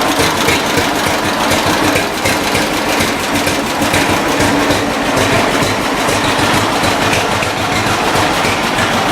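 John Deere tractor engine running steadily with a fast, even low beat, freshly overhauled and just started up.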